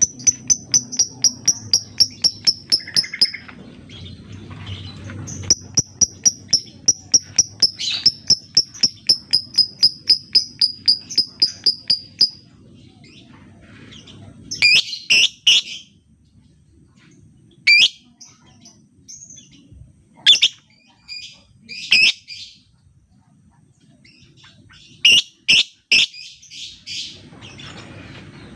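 Lovebird calling: two long runs of rapid, evenly spaced high ticking chirps (the 'ngetik' call), about six a second, in the first twelve seconds. After a pause come sharper, harsher shrieks in short clusters.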